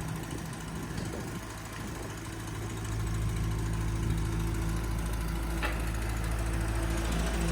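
Ferguson TE20 tractor engine running steadily, its low rumble growing louder about three seconds in.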